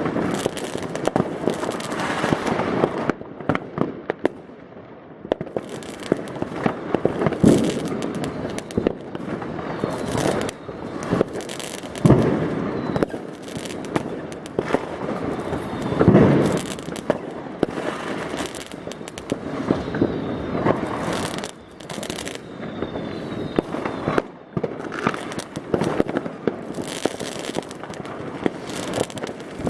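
Massed New Year's Eve fireworks across a city neighbourhood: a continuous barrage of rocket bangs, firecrackers and crackling, with several louder booms, echoing off the surrounding buildings.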